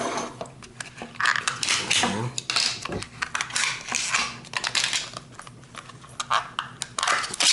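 Plastic driver-bit case and loose bits being handled: irregular clicking, clattering and scraping of small hard pieces.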